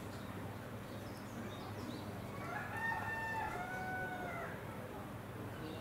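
A single drawn-out bird call, arching slightly in pitch, starting about two and a half seconds in and lasting under two seconds, over a low steady hum.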